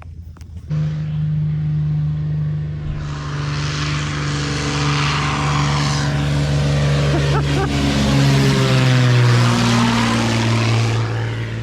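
Yamaha Ténéré motorcycle engine with a Coyote aftermarket exhaust, opening up about a second in and pulling steadily under load, its note shifting in pitch near the end. A rising hiss of wind builds as the bike gathers speed.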